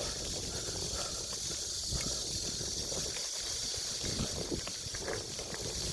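Riding noise on a forest trail: an irregular low rumble from wind and rough ground on the microphone under a steady high-pitched hiss.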